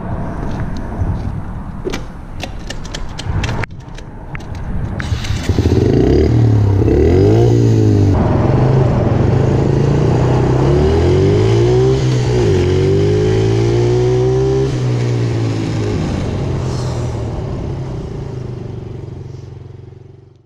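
50cc pit bike engine ridden hard, its pitch rising and falling over and over as it revs up and eases off. Rattling and sharp clicks over the first few seconds. The engine sound fades out near the end.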